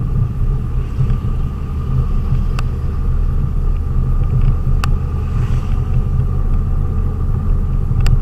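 Steady low engine and road rumble of a delivery vehicle driving, heard from inside the cab, with a few sharp clicks over it.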